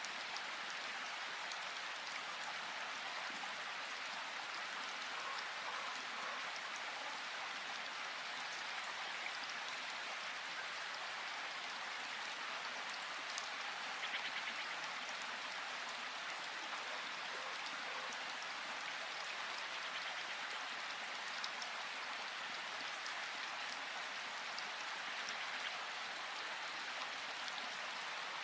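River water rushing, a steady hiss with no break.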